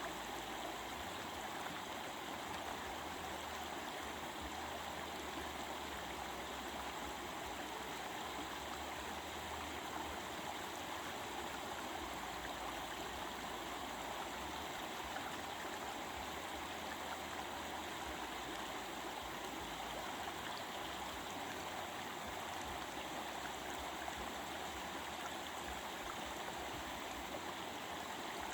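Stream water babbling, a steady even rush of flowing water that does not change.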